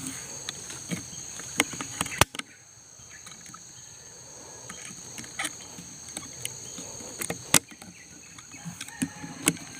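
Insects buzzing steadily at a high pitch in the undergrowth, with a scattering of sharp clicks and snaps, the strongest about two seconds in and again past the halfway mark.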